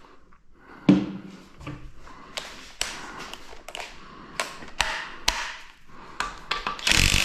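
Hand tools clicking and knocking on metal while bolts are worked loose on a GM 2.4 EcoTec engine's timing cover: a thud about a second in, a run of sharp separate taps, and a short noisy burst near the end.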